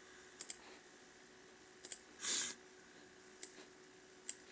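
Scattered clicks from a computer mouse and keyboard during a website login, some in quick pairs, with a short noisy rush about two seconds in. A faint steady electrical hum sits underneath.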